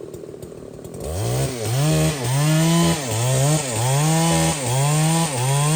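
Large chainsaw starting from a low idle, then from about a second in running at full throttle, its pitch repeatedly sagging and recovering about every half second as the chain bites into the wood.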